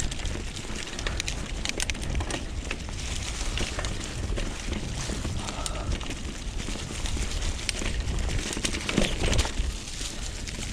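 Mountain bike riding down a rough dirt trail: tyres rolling over dirt and stones with frequent sharp rattles and clicks from the bike over bumps, and wind buffeting the microphone as a low rumble.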